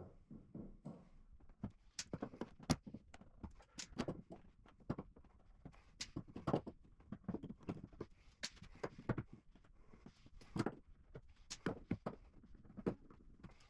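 Irregular knocks and clatter from a wooden floor being dismantled, boards and tools knocking together at an uneven pace.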